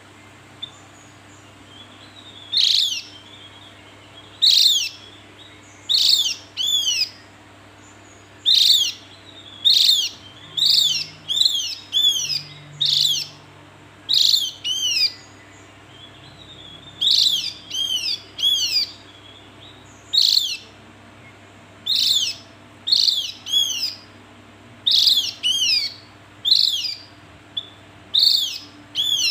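Javan grey-throated white-eye (opior Jawa) calling: short, high notes that sweep downward, given singly or in quick pairs and triplets, repeated every second or two.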